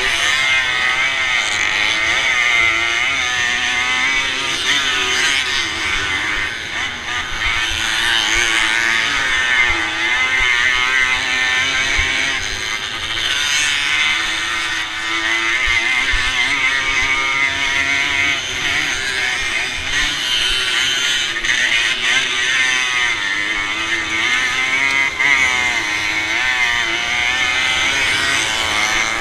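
Motocross motorcycle engine heard from the rider's helmet camera, revving up and dropping back over and over as the bike races along the track. Wind hisses on the microphone throughout.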